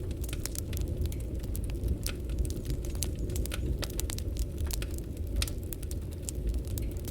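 Wood fire burning, with a steady low rumble and many sharp, irregular crackles and pops from the burning logs.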